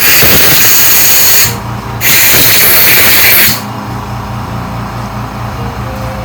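Compressed air hissing from a blow gun in two long blasts, each about a second and a half, with a short break between, blowing corrosion out of a lawnmower carburetor's float bowl.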